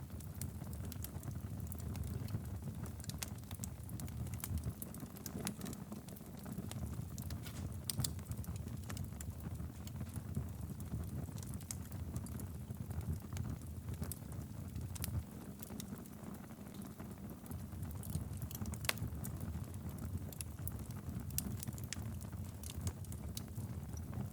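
Wood fire burning steadily in a fireplace: a low rumble of flames with frequent irregular crackles and pops.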